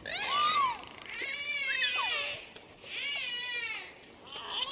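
Dolphin whistling and squealing: four separate high calls that glide up and down in pitch, the second one the longest at about a second.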